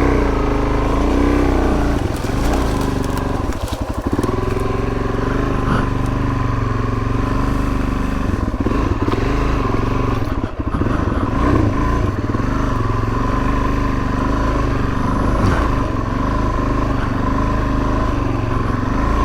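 Suzuki DR-Z400S single-cylinder four-stroke dirt bike engine running on a trail ride, its note rising and falling with the throttle, with a few brief knocks.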